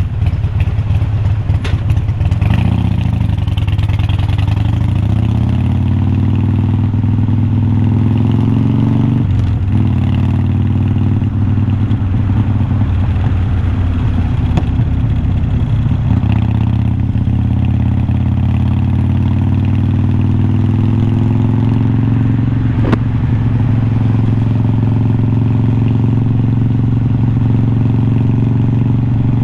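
Harley-Davidson Iron 1200's air-cooled V-twin engine running loud through unbranded glass-pack-style slip-on mufflers while riding. The engine note rises and falls briefly a couple of seconds in, breaks off for a moment about nine seconds in, then holds a steady pull with its pitch slowly climbing toward the end.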